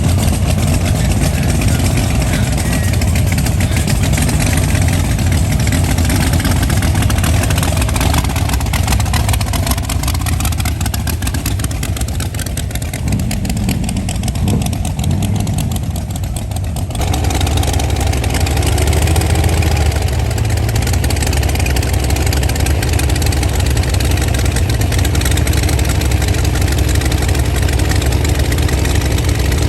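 Classic car engine idling, a steady loud low rumble; the sound changes abruptly a little over halfway through.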